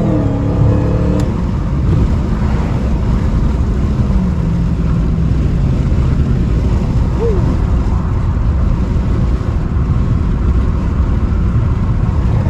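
The supercharged 6.2-litre V8 of a 2016 Dodge Challenger SRT Hellcat, heard from inside the cabin at the end of a hard full-throttle pull: its pitch drops at an upshift right at the start, then the engine runs on at speed under loud, steady road and wind noise.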